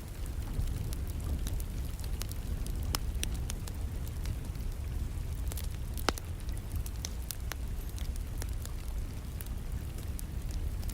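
Wood fire crackling and popping in a fireplace, with scattered sharp snaps over a steady low rumble and a hiss of rain. One louder pop comes about six seconds in.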